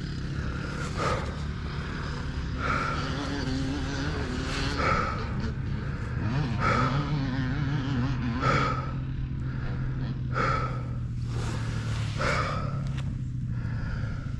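Single-cylinder engine of a Kawasaki KLX230R dirt bike running steadily at low revs, its pitch wavering a little midway. The rider's breathing comes through about every two seconds.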